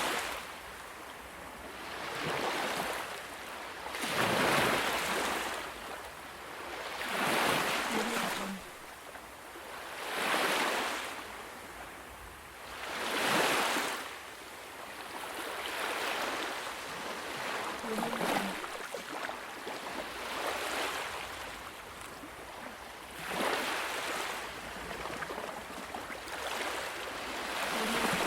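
Ocean waves washing onto a shore, each wave swelling and fading in a rhythmic surge about every two to three seconds.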